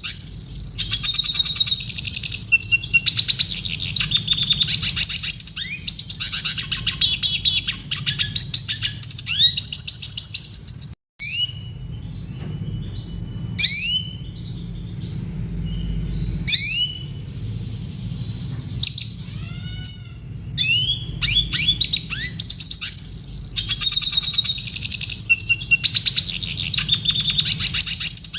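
Red siskin singing a clear song of rapid twittering trills, with phrases learned from other birds worked in. About 11 seconds in the song cuts out for a moment, then comes a sparser stretch of single rising calls and sweeps before the dense twittering resumes.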